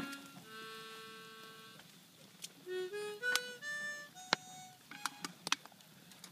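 Music played on a reedy wind instrument, harmonica-like: a held note, then a quick run of short notes at changing pitches, with a few sharp clicks in the second half.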